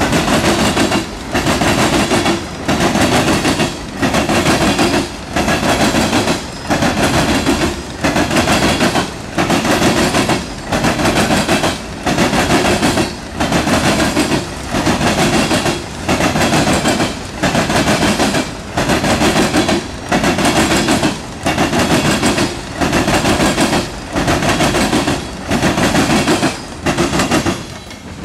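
Loaded coal hopper cars of a freight train rolling past, their wheels clattering over crossing track in a steady rhythm of about one loud burst a second. The clatter stops near the end as the last car passes.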